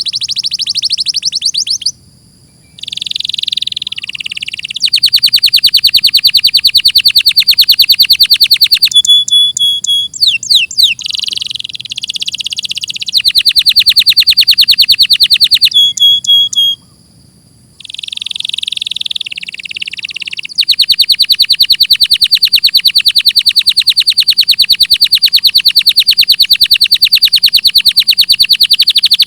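Domestic canary singing: long, very fast trills of rapidly repeated high notes held for several seconds at a time, broken by shorter buzzy phrases and two brief pauses.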